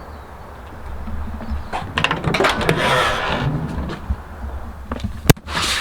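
Handling noise: rustling and scattered knocks over a low rumble, with one sharp click about five seconds in.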